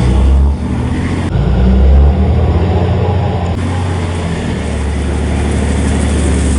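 Heavy-duty pickup truck engines running hard under load, a loud, steady low rumble. The sound changes abruptly about a second in and again midway, as if cut between takes.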